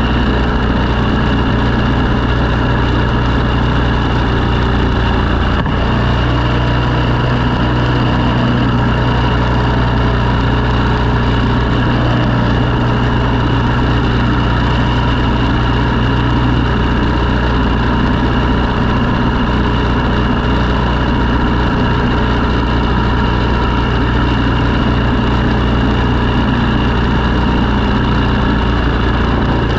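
Engine of a snow-clearing machine running steadily, its pitch shifting slightly about six seconds in.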